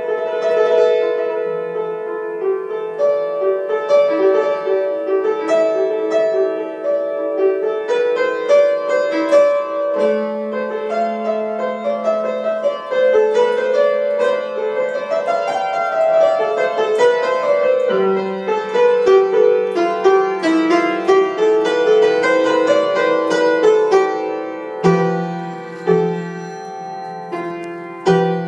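Solo piano playing an improvised melody over sustained bass notes.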